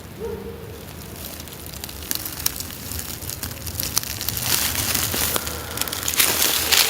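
Dry leaves and twigs crackling and rustling, with scattered sharp snaps, getting much louder about halfway through.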